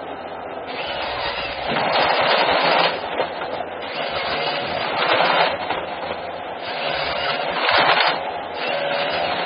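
Heavy forestry machine working on trees, a loud rough rattling noise that swells and eases in bursts about a second long.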